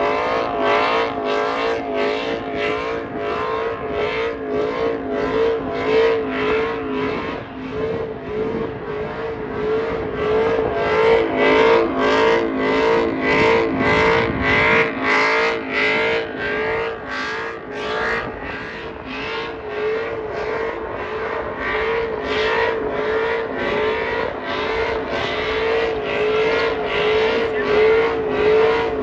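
Truck engine held at high revs during a burnout, its pitch steady with a slight wobble, pulsing evenly about one and a half times a second as the rear tires spin.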